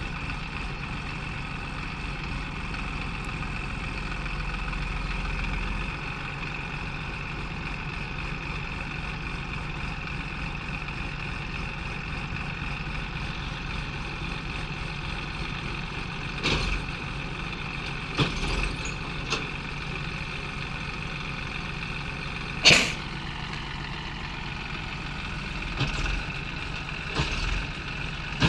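JCB 3DX backhoe loader's diesel engine running steadily. From about halfway on come several sharp metal clanks, the loudest about 23 seconds in.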